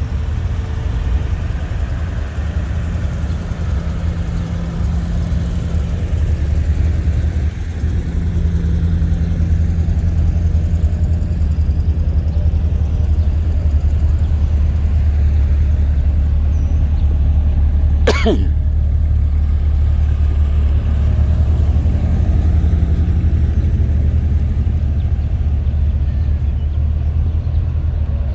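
Classic car engines rumbling as the cars drive slowly past in a line, a steady low rumble that grows a little louder several seconds in. A single sharp click cuts through about eighteen seconds in.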